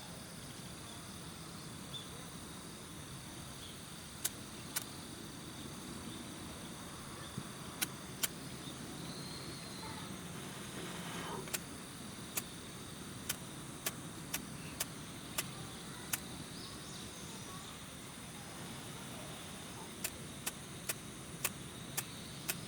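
Wood fire crackling in a titanium fire pit: sharp, irregular pops every second or so over a steady low hiss.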